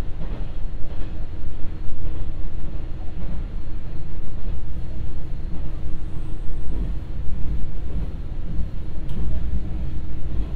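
Inside the cabin of an Ibara Railway IRT355 diesel railcar running along the line: a loud, steady low rumble of the railcar under way, with a faint steady hum.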